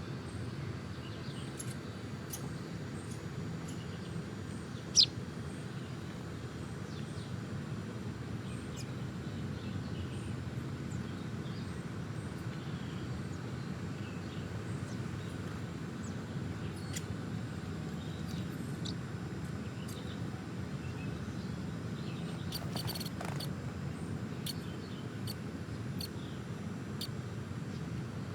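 Small birds chirping off and on in short high notes, one louder chirp about five seconds in, over a steady low background rumble.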